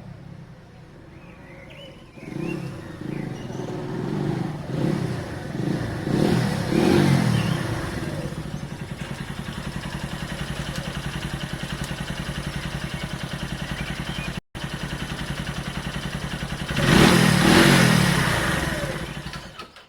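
Small motorcycle engine revved a few times, then running steadily with an even pulse, then revved once more near the end before dropping away.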